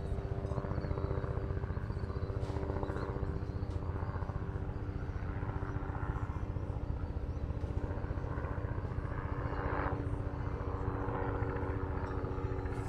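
Steady low engine drone of harbour traffic, a deep rumble with a constant multi-tone hum, swelling briefly about ten seconds in.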